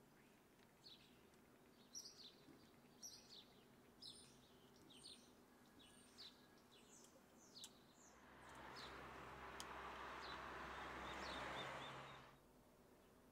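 Faint birdsong of short, high chirps repeating through a quiet room tone. A broad rushing noise with a low hum swells from about eight seconds in and cuts off about a second before the end.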